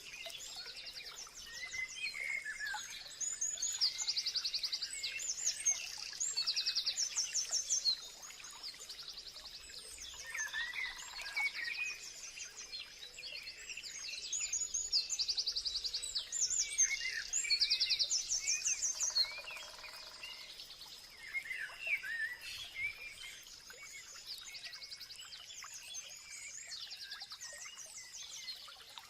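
Several songbirds singing and calling together: overlapping rapid high trills and short chirps, with a steady high tone running beneath and a lower call about ten seconds in and again near twenty seconds.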